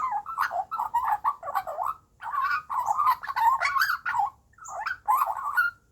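Young Australian magpie calling in quick, wavering, warbling notes, in three runs with short pauses between them.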